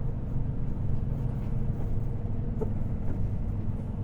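Semi truck's diesel engine running steadily at low speed, a continuous low rumble heard from inside the cab, with a brief faint squeak about two and a half seconds in.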